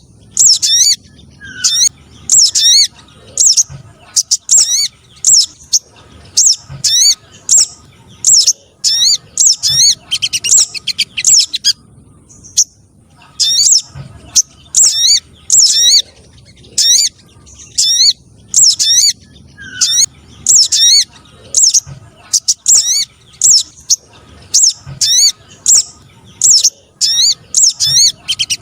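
Spiderhunter lure calls: loud, short, high chirps with sharp upward sweeps, about two a second, with a brief pause about halfway through.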